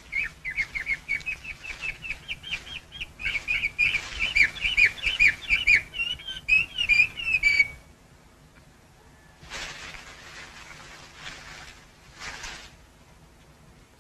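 A bird chirping in a fast run of short whistled notes that stops a little past halfway. Then come a few short rustles of leaves.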